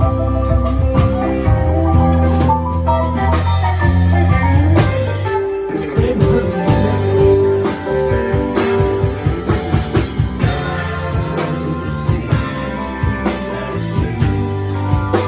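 A band playing rock music with guitar, bass and drums. About five seconds in, a steady drum beat takes over under a held guitar line.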